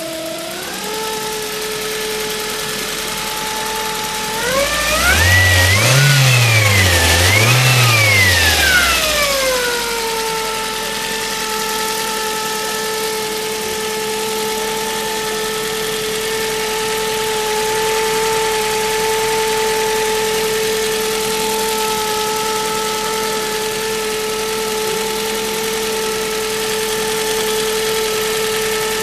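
Ford Focus 2.0 petrol AODA four-cylinder engine idling, revved up twice in quick succession about five seconds in, then settling back to a steady idle.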